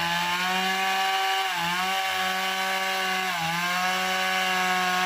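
Chainsaw running at high revs, cutting wood, its pitch sagging briefly twice as the chain bites and then recovering.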